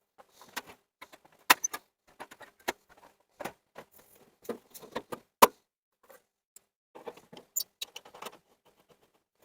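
Irregular clatter of a grill and cooking gear being pulled out and handled, with sharp knocks and clinks several times and softer rustling between.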